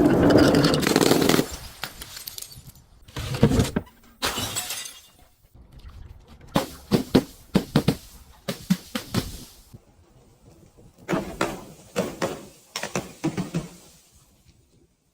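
Glass bottles breaking under crushing: a loud shattering crash at the start, then a string of sharp crunching and cracking bursts as the glass is crushed further.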